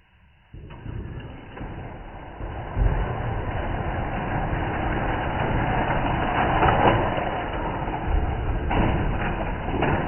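Slot cars running on the track: the whir of their small electric motors and the rattle of wheels on the plastic track start about half a second in and build to a steady, loud run.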